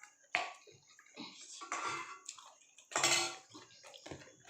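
Plates and utensils clinking and clattering at a meal, in irregular knocks, with a sharp clink about a third of a second in and the loudest clatter about three seconds in.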